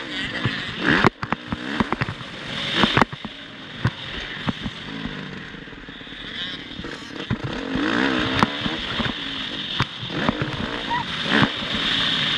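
Motocross bike engine revving, its pitch rising and falling again and again, with frequent sharp knocks and rough noise.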